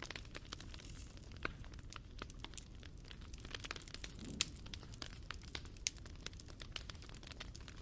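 Wood fire crackling, with irregular sharp pops and snaps over a low steady rumble of burning; the loudest pops come a little past halfway.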